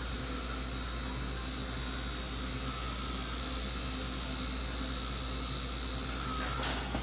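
Dental equipment hissing steadily during a teeth cleaning, with a faint whistling tone over a low hum.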